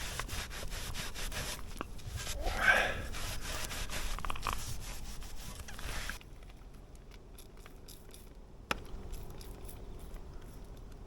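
Scraping and rubbing as rust cleaner is worked onto a rusty motorcycle exhaust pipe, with many small clicks. It drops off abruptly about six seconds in to faint ticks and a single knock a little before nine seconds.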